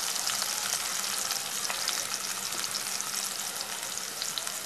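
Chopped onion and tomato sizzling in hot oil with cumin, freshly added, a steady hiss with small crackles that slowly eases off.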